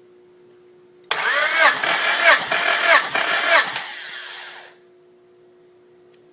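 Honda B18C four-cylinder engine being turned over by its electric starter motor for a compression test. The starter's whine dips and recovers with each compression stroke for about two and a half seconds, then spins down and stops.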